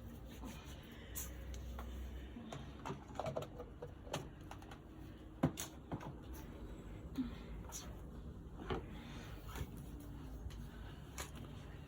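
Faint, irregular clicks and knocks, a dozen or so scattered over several seconds, over a low steady hum.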